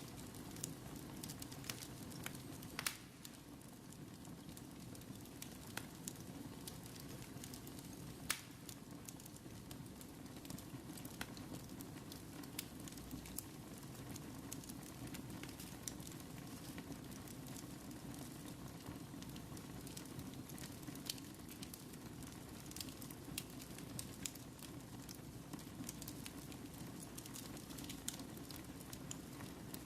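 Fire crackling, with scattered sharp pops over a low steady rumble; the loudest pops come about three and eight seconds in.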